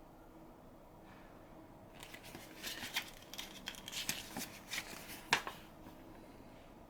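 Paper rustling: the pages of an instruction manual being turned and handled, a flurry of crisp rustles and sharp flicks lasting about three seconds, the sharpest flick near the end.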